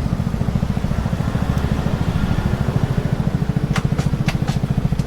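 Honda Chaly minibike's small single-cylinder four-stroke engine idling with a fast, even low putter. A few sharp clicks come close together a little before the end.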